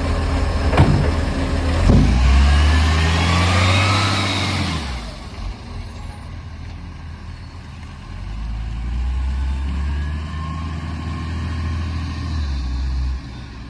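Garbage truck's diesel engine revving, its pitch rising over the first few seconds, with a couple of sharp knocks early on. It then drops back, and revs again from the middle until it cuts down suddenly near the end. The truck has an exhaust leak.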